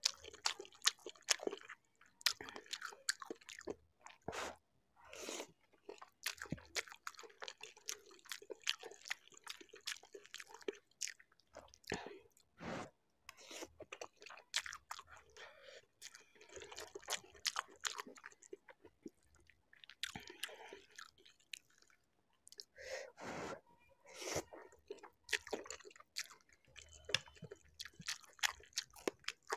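Close-miked chewing and crunching as a mouthful of spicy Maggi instant noodles topped with sweetcorn and green chillies is eaten. The mouth sounds are irregular, with many short crisp bites.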